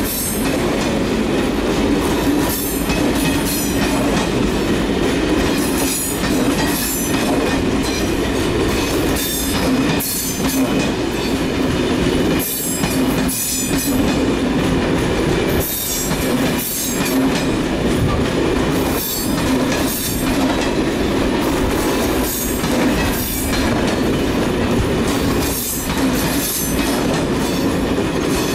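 A train running along the rails close by, its wheels clacking over rail joints about once a second over a steady rolling rumble.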